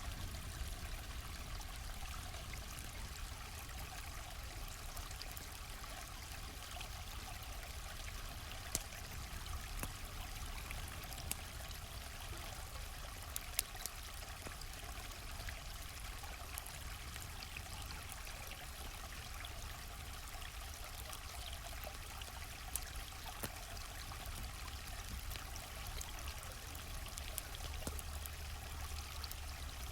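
Stream flowing steadily, with scattered sharp crackles and pops from a wood campfire.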